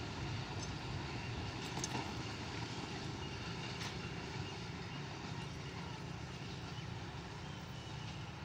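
Low, steady rumble of a receding passenger train, slowly fading as it moves away.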